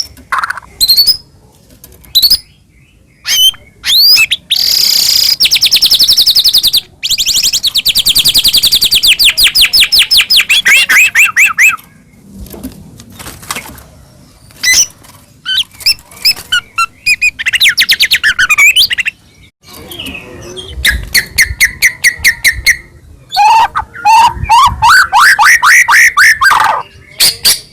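White-rumped shama (murai batu) singing a loud, varied song: rapid runs of repeated whistled notes. A long fast series runs through the first half, scattered calls follow, and another run of rising notes comes near the end.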